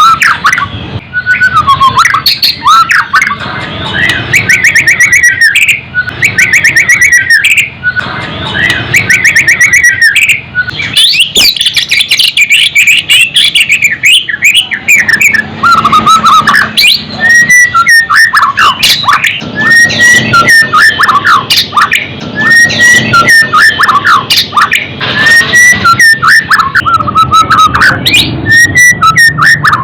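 White-rumped shama (murai batu) singing loud, continuous, varied song: rapid trills and harsh chattering notes in the first half, then a sweeping whistled phrase repeated about every two seconds.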